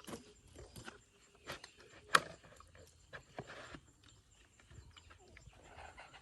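Plastic chicken drinker being fitted together: its parts knock and scrape as they are twisted to lock, with scattered clicks and one sharp knock about two seconds in.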